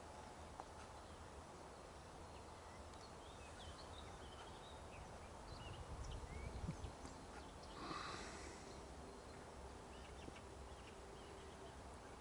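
Quiet rural ambience: small birds chirping on and off over a low rumble, with one louder animal call about eight seconds in.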